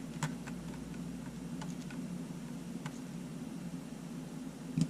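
A few faint, light clicks of small parts and tools being handled during the disassembly of a camera, over a steady low hum.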